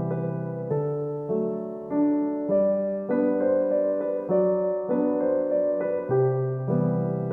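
Gentle background piano music, notes and chords struck at an even, slow pace.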